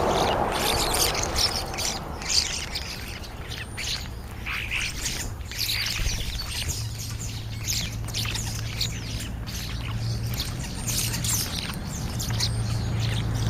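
A flock of European starlings chattering at a feeding spot: many short whistles, clicks and squawks overlapping throughout.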